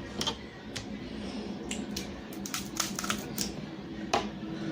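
Close-up eating sounds from a seafood boil: scattered small clicks and crackles of snow crab legs being handled, cracked and chewed, thickest around three seconds in.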